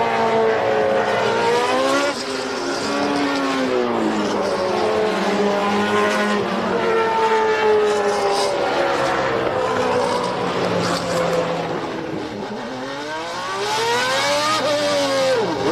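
Several 1990 Formula One cars running at formation-lap pace, their engine notes overlapping and sliding up and down in pitch as they pass. Near the end one engine revs up and then falls away.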